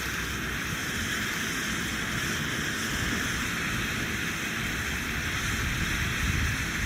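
Monkey Mania ground fountain firework spraying sparks with a steady hiss.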